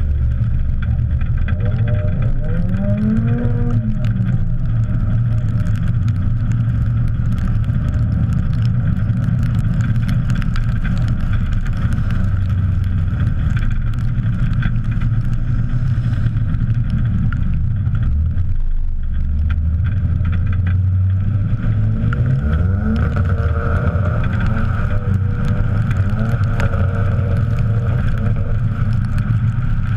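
Car engine running under way, its revs rising and falling a few times over a steady low rumble of road and wind noise on a bonnet-mounted camera.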